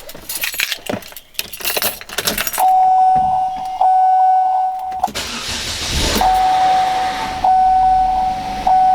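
Keys jangling in the ignition, then a dashboard warning chime that beeps steadily, repeating about once a second. About five seconds in, the Chevrolet Captiva's engine cranks for about a second and catches on a cold start, then idles under the chime. The brief noise while it cranks is one the mechanic calls typical of this engine on the first start, possibly an early sign of trouble.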